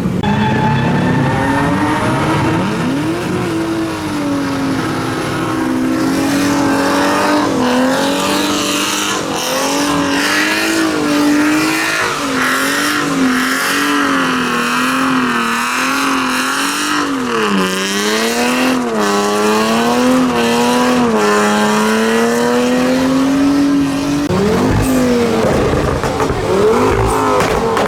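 Car engine held at high revs, its pitch wavering up and down with the throttle over the hiss of spinning, squealing tyres.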